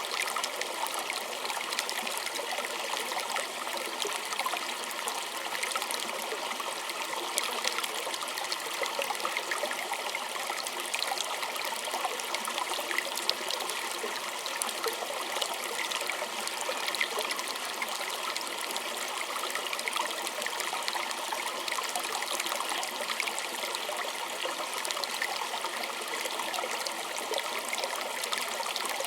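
A small stream running and trickling steadily, water burbling over stones with many fine splashes.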